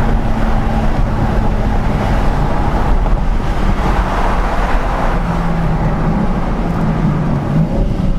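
BMW M4 Competition's twin-turbo S58 straight-six under way, its engine note holding steady for the first couple of seconds and then sitting lower, over a constant wash of road and wind noise.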